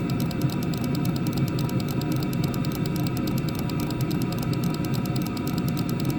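Chinese diesel heater running turned up: a steady rumble of the blower and burner, with a fast, even ticking that fits the fuel dosing pump.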